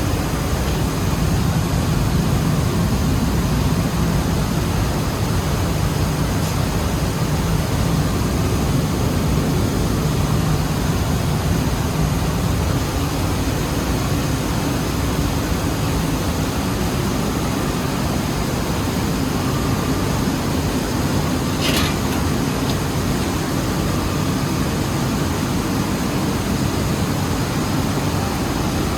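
Rice mill machinery running steadily: a loud, even, deep noise with no clear beat. A single short tick sounds about two-thirds of the way through.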